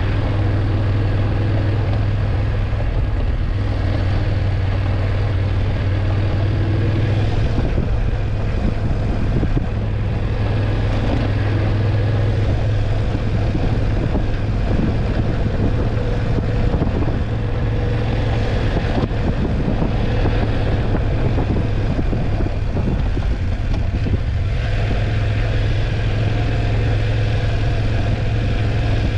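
BMW F850GS motorcycle's parallel-twin engine running steadily under way, with a strong low hum and a few small shifts in tone as the throttle changes.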